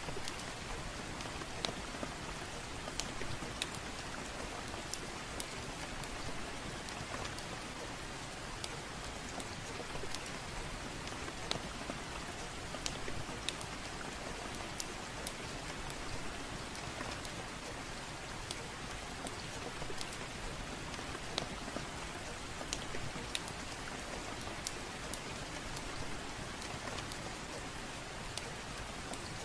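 Soft rain falling steadily, with scattered sharp clicks through it.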